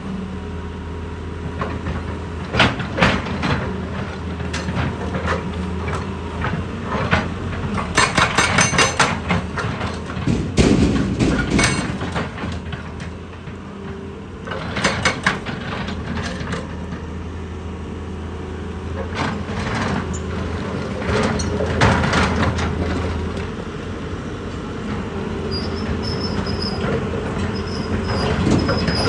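Heavy machinery running with a steady low engine drone, overlaid by repeated metallic clanks and knocks, including a quick rattling run of knocks about eight seconds in.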